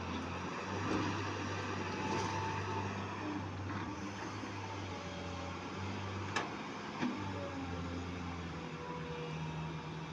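Heavy diesel engine running steadily at a low, even speed, with two sharp knocks about six and a half and seven seconds in.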